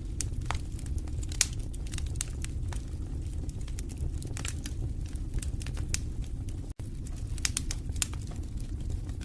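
Wood fire crackling in a fireplace: irregular sharp pops and snaps over a steady low rumble of the flames. The sound cuts out for an instant about two-thirds of the way through.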